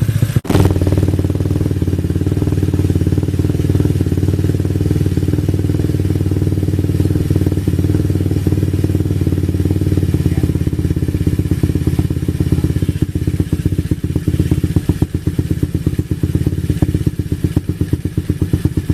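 Yamaha Mio scooter's single-cylinder DOHC engine running steadily. There is a brief dropout about half a second in, and its loudness wavers more over the last few seconds.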